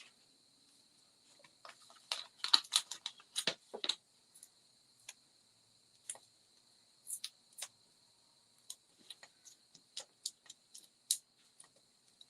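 Small clicks and taps of paper-crafting supplies being handled on a work table as dimensional foam pads are put on a card layer: a quick flurry of them about two seconds in, then scattered single taps, over a faint steady high hiss.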